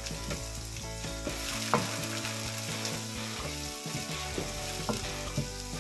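Chopped red onion, garlic and coriander stems sizzling in hot oil in a nonstick wok while a wooden spatula stirs them, with irregular scrapes and taps of the spatula on the pan. The sharpest knock comes a little under two seconds in.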